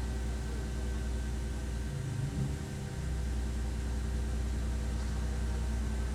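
Race car engine running steadily at an even pitch, with a brief break and dip in the sound about two seconds in.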